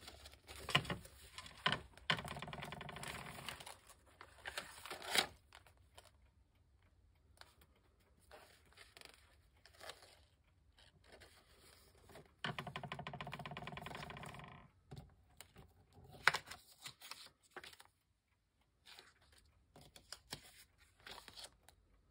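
Cut-out paper tags and cards rustling, sliding and tapping as they are handled and sorted on a work table. Twice, a steady pitched hum of two or three seconds rises above the paper sounds: once about two seconds in and once past the middle.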